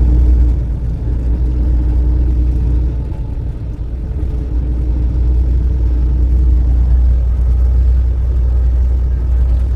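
Steady low rumble of a truck driving, engine and road noise with a faint hum that comes and goes.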